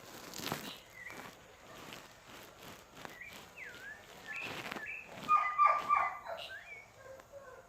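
An animal's short pitched calls: softer rising and falling chirps in the first half, then a quick run of three louder calls about two thirds of the way through.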